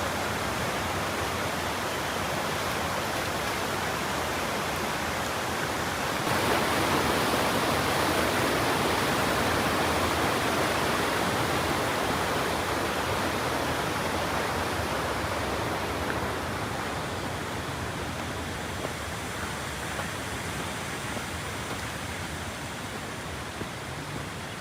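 Steady rush of a waterfall's falling water. It grows louder about six seconds in and slowly fades over the last third.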